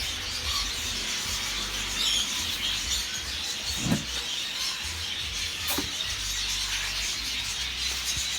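Many small caged birds chirping together in a continuous high chatter, with a couple of brief knocks about four and six seconds in.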